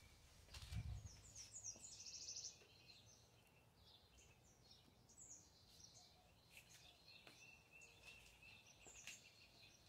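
Small birds chirping faintly, with short repeated high notes and a quick trill about two seconds in. A brief low rumble sounds about a second in.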